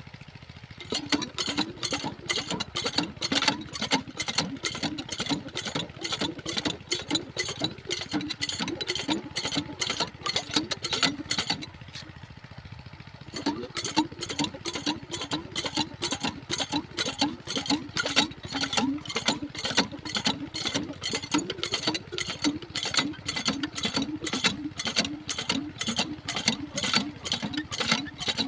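Diesel engine driving a water pump, running with a fast, even chugging beat. The beat drops away for a moment a little before halfway, then picks up again.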